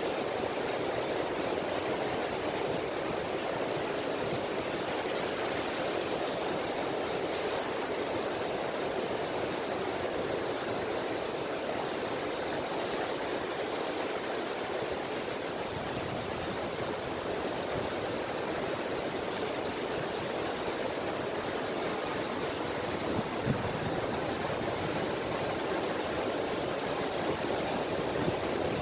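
Small waves of the Seto Inland Sea lapping and washing on a beach in a steady, even wash, with one brief tap about two-thirds of the way through.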